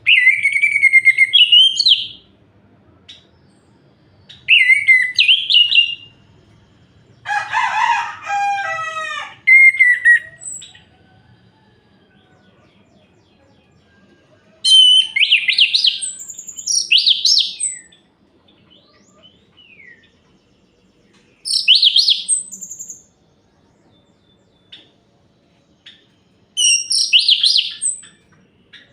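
Orange-headed thrush singing: about six short phrases of loud, varied whistled notes, separated by pauses of a few seconds. One phrase near the middle is lower and harsher.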